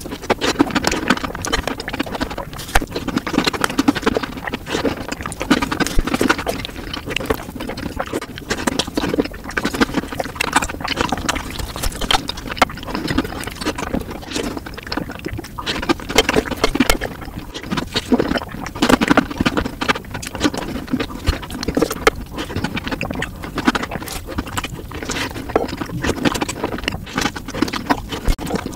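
Close-miked chewing of soft chocolate sponge cake, with wet smacks and clicks of the mouth coming steadily one after another.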